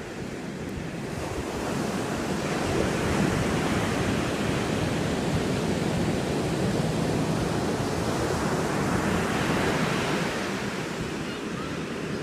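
Ocean surf washing up the beach: a wave's wash swells over several seconds and eases off near the end.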